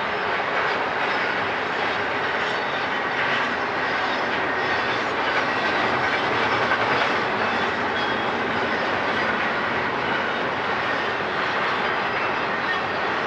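Freight train cars rolling past: a steady rush of wheel and rail noise.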